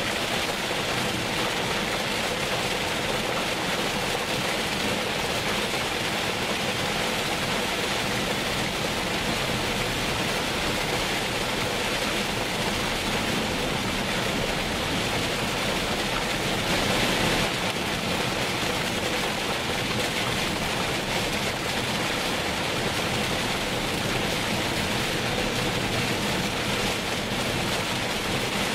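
Heavy rain falling, a steady even hiss that swells briefly about seventeen seconds in.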